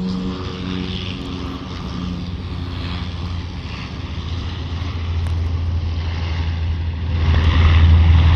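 Military propeller airplane approaching: a steady engine drone with a hum that fades early on, then a low rumble that builds and gets louder near the end.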